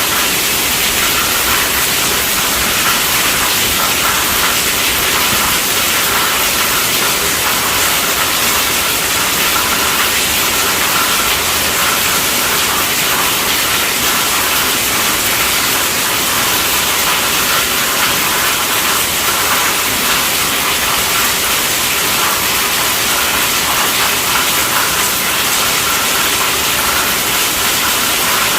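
Steady heavy rainfall, an even hiss of rain with no letup.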